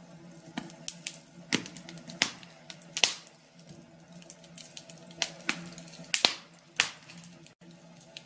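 Fireplace fire crackling: irregular sharp pops and snaps, sometimes several close together, over a faint steady low hum.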